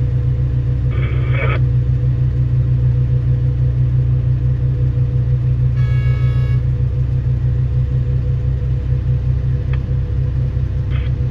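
Hitachi EX2500 mining excavator's diesel engine running steadily with a deep, even hum. A short pitched tone sounds briefly about six seconds in.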